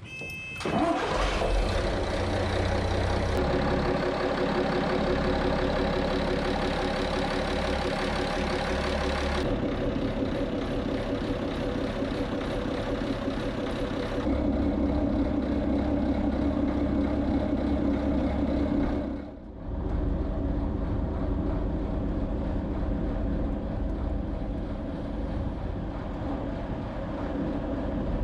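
Dutch barge's inboard engine starting and then running steadily. Its running sound changes abruptly a few times and dips briefly about two-thirds of the way through.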